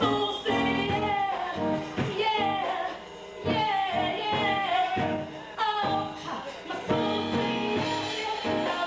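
Live worship music: a woman singing a gliding, wavering melody over instrumental accompaniment.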